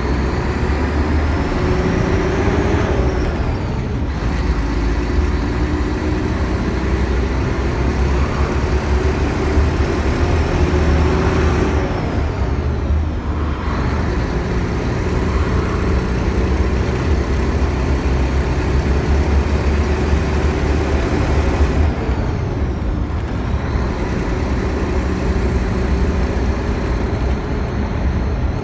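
Scania K112 coach's six-cylinder diesel engine pulling under load. Its pitch climbs steadily in each gear and drops at gear changes about 3 seconds, 12 seconds and 22 seconds in.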